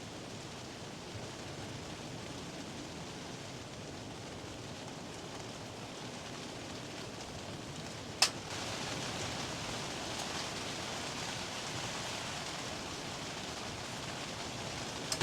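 Steady rain falling. A single sharp click comes about eight seconds in, and the rain is a little louder after it.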